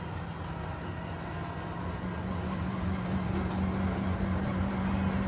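Vehicle engine running steadily under load, its pitch creeping slightly upward, as a stuck vehicle spins its wheels in the mud.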